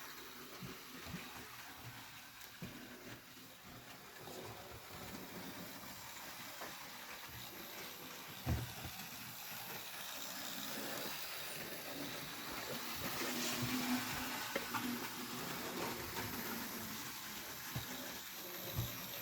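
A model train running on its track: a steady running noise with scattered small clicks that slowly gets louder, and a single louder knock about eight seconds in.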